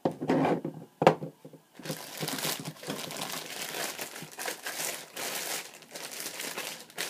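Newspaper packing being crumpled and pulled off a boxed die-cast toy tractor, a continuous crinkling that follows two light knocks near the start.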